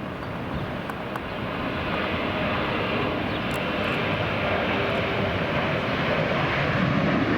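Jet airliner's engines at takeoff thrust, a steady rushing roar that grows gradually louder as the heavily loaded plane uses almost the whole runway to get airborne.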